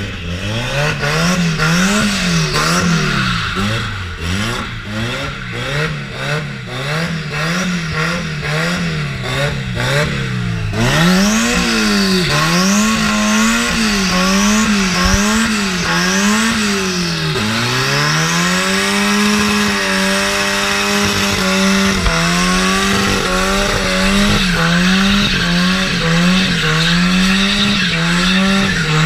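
Car engine revving up and down about once a second, then held at high revs with a slight waver through the second half.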